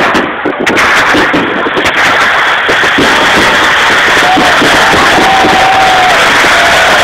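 A few last firework bangs in the first second or two, then a crowd applauding and cheering steadily, with a few voices whooping near the end.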